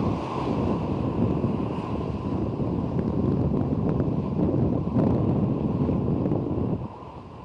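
Strong wind buffeting the microphone, a loud, uneven rumble that eases for a moment near the end.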